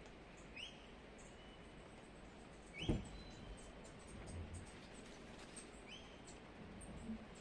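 Pet parrot giving short, rising chirps a few seconds apart, with a soft knock at the loudest chirp about three seconds in.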